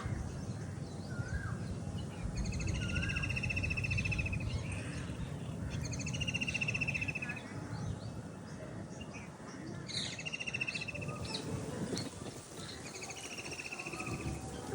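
Birds calling in a park: a rapid trill about a second long repeats four times, every three to four seconds, among other short chirps, over a steady low background rumble.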